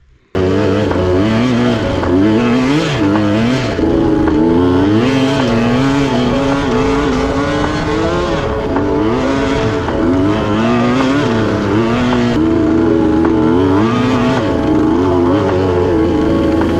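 Dirt bike engine being ridden, its pitch climbing and dropping again and again with throttle and gear changes. It starts abruptly about half a second in.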